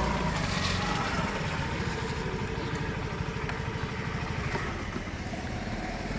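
Hero Maestro Edge scooter's single-cylinder engine running steadily with a fast low pulse.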